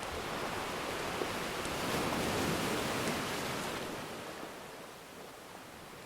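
Ocean surf: a wave swells and washes in about two seconds in, then draws back and fades, with a few faint crackles from a wood fire.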